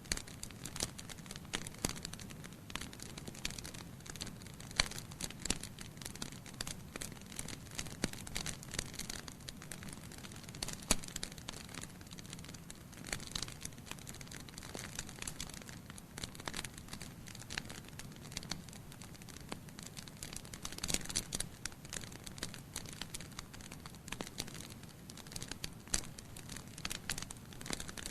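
Wood fire in a fireplace burning logs: a steady soft hiss with frequent irregular crackles and pops.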